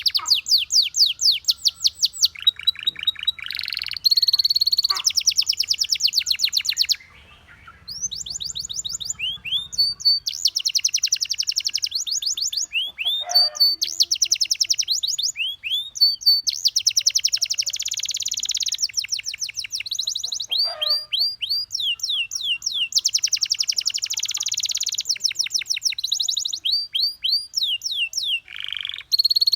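Domestic canary singing: fast trills of rapidly repeated notes mixed with rising sweeps and held notes, broken by a short pause about seven seconds in.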